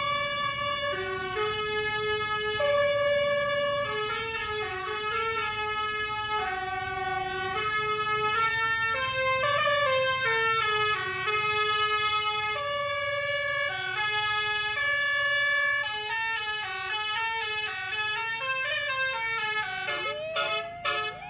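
A single line of pitched notes stepping up and down like a melody, with a few sliding rising and falling sweeps near the end.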